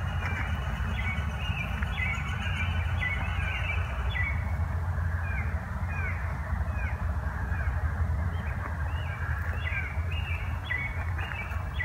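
Songbirds chirping in the background: many short, falling chirps repeated over and over, over a steady low rumble.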